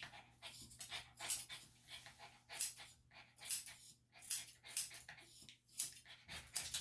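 A senior Bichon–Shih Tzu mix dog panting, in loud breathy huffs that come irregularly, about one every half second to a second.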